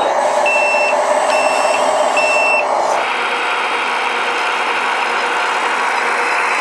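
Reversing beeper of a radio-controlled construction model, three steady high beeps about a second apart, over the steady whir of its motors. About three seconds in the sound changes abruptly to a different steady mechanical whir with no beeping.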